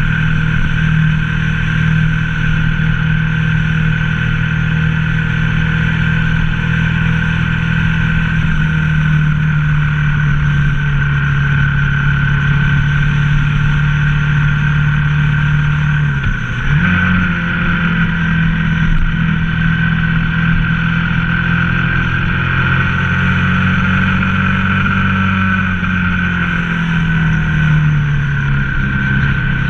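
Ducati ST4S V-twin engine running at steady cruising revs, its pitch drifting slowly up and down. About sixteen seconds in there is a brief dip, then a jump in pitch: a gear change.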